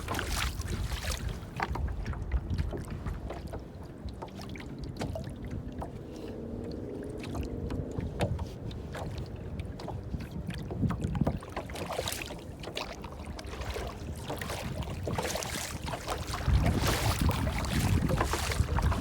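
Water splashing and lapping in short irregular slaps, over a low rumble of wind; it grows louder near the end.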